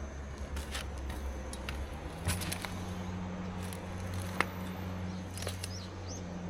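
Wood campfire crackling and snapping in scattered sharp clicks over a steady low hum, with one louder snap near the middle.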